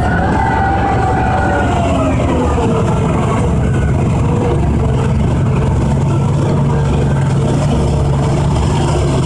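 Heavy diesel engines of mining equipment running loud and steady, with a whine that falls in pitch over the first three seconds, then a steady low drone.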